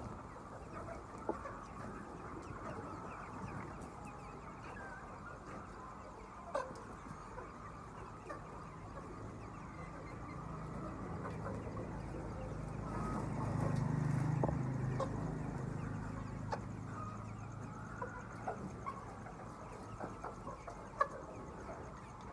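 A large flock of chickens clucking and chirping together, with scattered short clicks. A low rumble swells up and fades away again around the middle.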